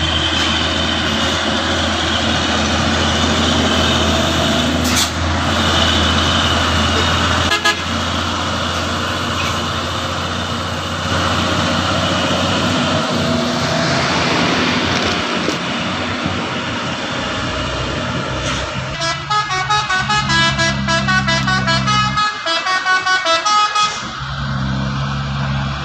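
Heavy truck engine running steadily with road noise, then a rapid run of pitched horn toots near the end.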